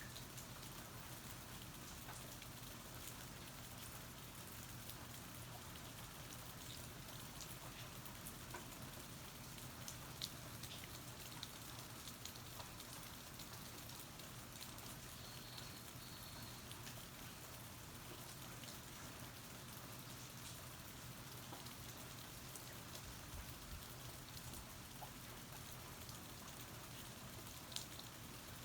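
Steady rain falling, heard from under a porch roof, with scattered drops ticking and a couple of sharper drips standing out.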